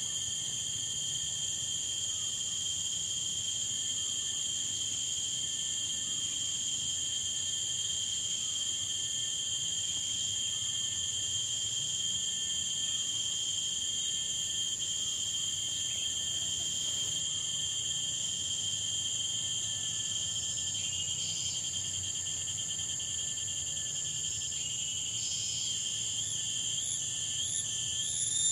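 Tropical insect chorus: a steady, unbroken high-pitched trilling of crickets or cicadas. A second, pulsing chirp call joins in near the end.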